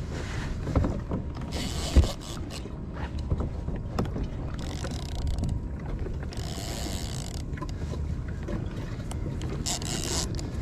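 Fishing reel and tackle being worked on a kayak during a fight with a fish: mechanical clicking and scattered knocks, one sharp knock about two seconds in, and several short bursts of hiss.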